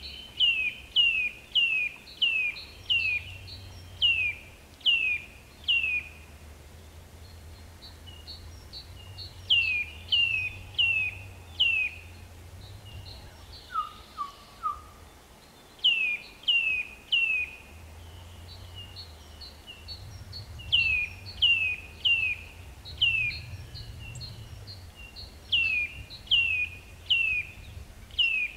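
A songbird singing: runs of loud whistled notes, each sliding downward, about two a second with short pauses between the runs. A short run of three lower notes comes about halfway through, over a faint low rumble.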